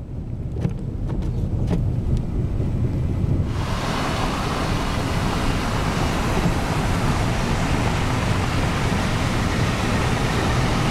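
Pickup truck driving on a snowy highway, heard from inside the cab: a steady low rumble of engine and tyres. About three and a half seconds in, a loud steady rushing hiss comes in on top and keeps on.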